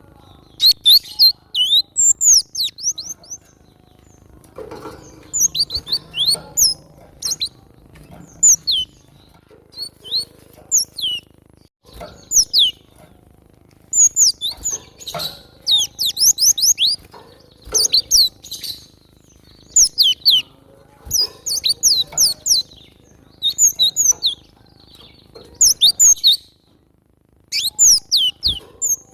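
Cinereous tit (glatik batu) calling vigorously: repeated bursts of high, sharp, downward-slurred notes, several notes to a burst, a burst about every second with short pauses between.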